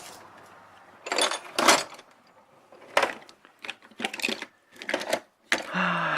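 Irregular clicks and clinks of small metal hand tools being handled, about half a dozen sharp knocks spread over several seconds.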